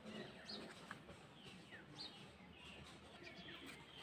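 Faint bird chirps, a few short calls falling in pitch, over quiet outdoor background.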